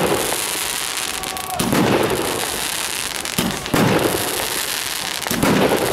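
Fireworks display: a series of sudden bangs about every two seconds, each fading away, over a steady crackling hiss.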